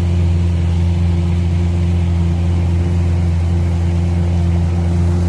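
Yamaha 60/40 outboard jet running at a steady speed, a loud even drone with no change in pitch.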